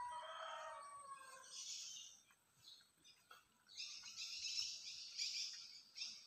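Birds calling: a pitched call of about a second and a half at the start, then a burst of high, rapid chirping from about four seconds in.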